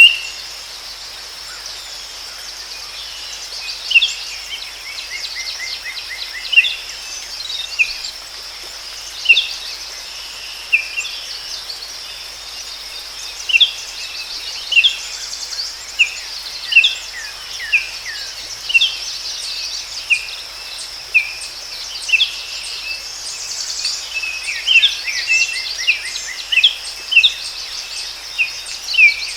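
Forest birds calling with short, sharp chirps every second or two, some run together into quick trills, over a steady high-pitched insect drone.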